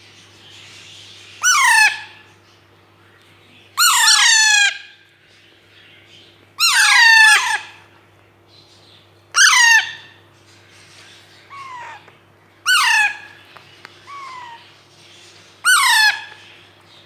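Young Alexandrine parakeets calling: six loud, short squawks, each falling in pitch, about every two to three seconds, with two fainter calls between the later ones.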